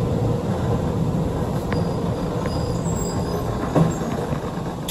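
Chikuho Electric Railway 3000-series electric train running between stations, heard from inside the car: a steady rumble of wheels on rail with a few light clicks and a short knock nearly four seconds in.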